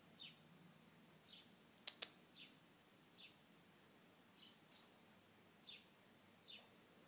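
Faint bird chirps: short, quick, downward-sliding notes repeated roughly once a second. Two sharp clicks close together about two seconds in are the loudest sounds.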